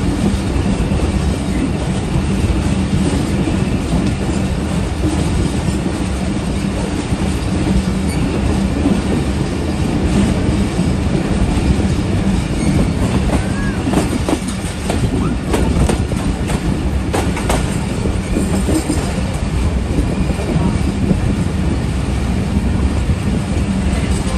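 Passenger train running along the track, heard from an open coach doorway: a steady rumble of wheels on rails, with a cluster of sharper clacks a little past halfway.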